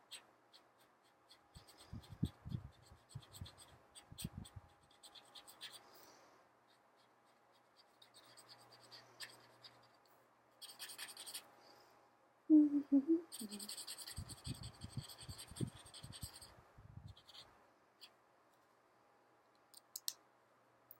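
Felt-tip marker strokes scratching and squeaking on paper in repeated bursts as a picture is coloured in. A short hum comes about two-thirds of the way through.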